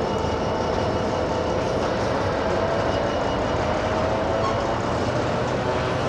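Freightliner Class 66 diesel locomotive with its EMD two-stroke V12 hauling a container train past at low speed: a steady engine drone under continuous wheel and rail noise.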